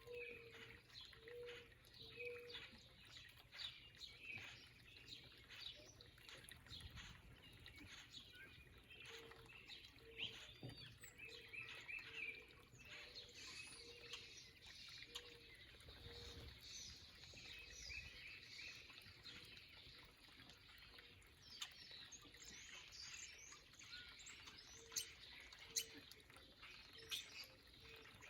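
Faint chorus of small backyard birds chirping and calling, many short high calls throughout, with a low short note repeating at intervals.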